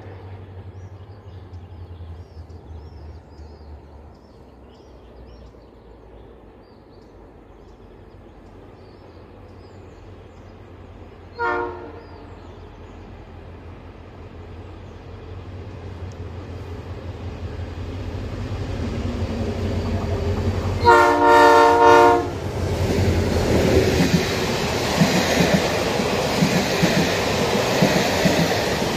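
ONCF DH-426 diesel locomotive approaching with train N°101, its engine drone growing steadily louder. It sounds a short horn toot near the middle, then a longer, louder horn blast as a salute about three-quarters through. The locomotive and coaches then pass close by, wheels clattering on the rails.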